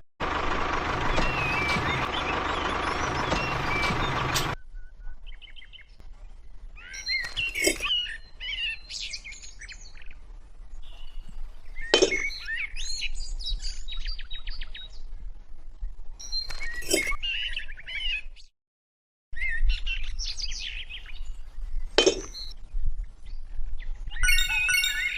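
Birds chirping, with a sharp knock about every five seconds. A dense steady noise fills the first few seconds.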